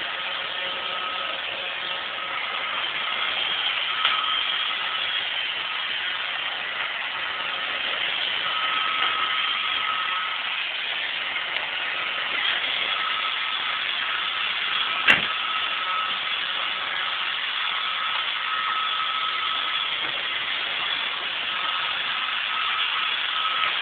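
iRobot Roomba 560 robot vacuum running: a steady whirring of its vacuum motor and brushes, with a thin whine that comes and goes. A single sharp click about fifteen seconds in.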